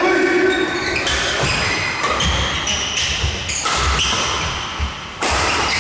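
Badminton doubles rally: rackets striking the shuttlecock again and again, with short high shoe squeaks on the court floor between the hits.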